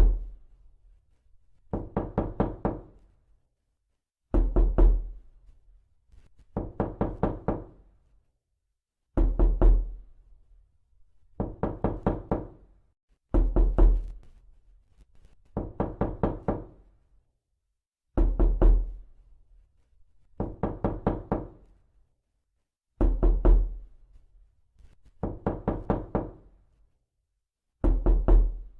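Repeated knocking in quick bursts of four to six knocks, a burst about every two seconds, in an even repeating pattern. Every other burst opens with a heavier, deeper thud.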